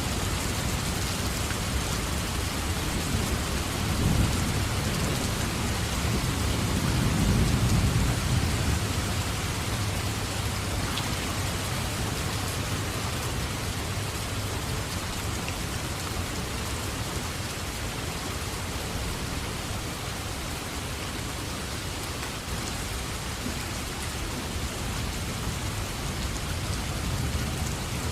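Steady heavy rain with a low rumble of thunder that swells about a quarter of the way in and dies away.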